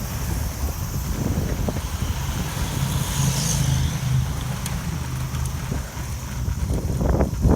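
Strong typhoon wind buffeting the microphone, a low, gusty rumble.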